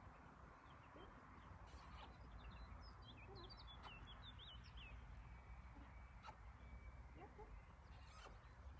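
Near silence outdoors: a low, steady background rumble, with faint birdsong. A quick run of high chirps comes about a third of the way in.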